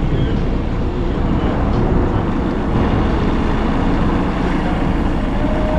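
Outboard motor running steadily, driving the sailboat along.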